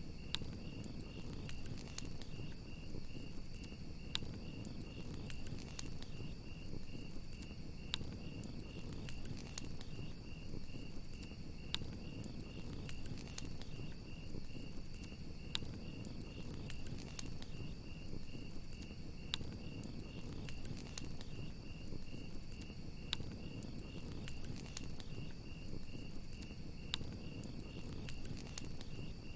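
Crickets chirping in a steady, fast pulsing trill over a crackling campfire, with sharp pops breaking through every few seconds above a low, steady rumble of the flames.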